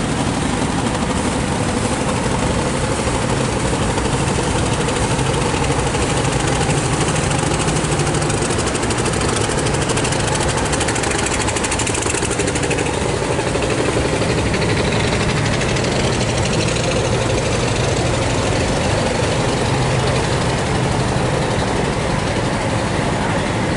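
Passenger train running across a steel railway bridge, heard from on board: a steady, loud running noise from the wheels and carriage that does not let up.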